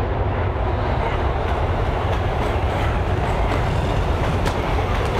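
Subway train coming along the tunnel: a loud, steady rumble of wheels on the track.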